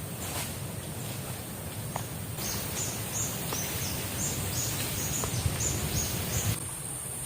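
Outdoor forest ambience: a steady low rushing noise with a high hiss, and through the middle a run of about ten short high chirps over a brighter hiss, with a few faint taps.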